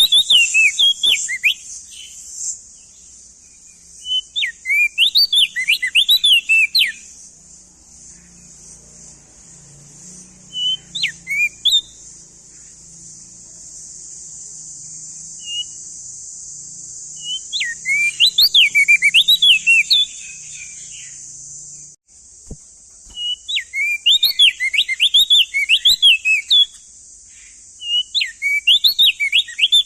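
Male opior jambul (crested darkeye) singing: bursts of rapid whistled notes sweeping up and down, repeated about six times with pauses of a few seconds between. A steady high hiss runs behind the song and cuts off suddenly about two-thirds of the way through.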